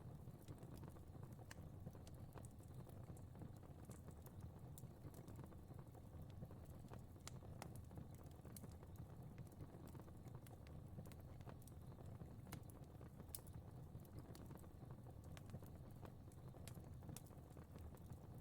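Faint fire crackling: irregular sharp pops and snaps over a soft, steady low rumble of burning.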